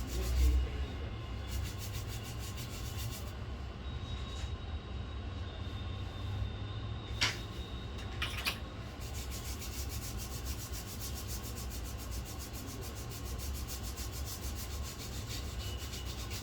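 Rapid, even rubbing or scrubbing strokes over a steady low hum, with two sharp clicks a little past the middle.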